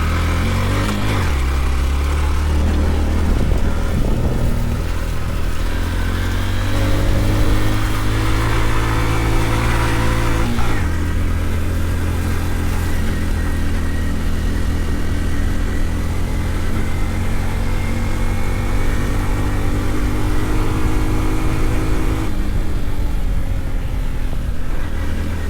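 Honda Trail 125's single-cylinder four-stroke engine running under load as the motorcycle is ridden. The revs climb for about ten seconds, drop suddenly, climb slowly again, then fall back near the end.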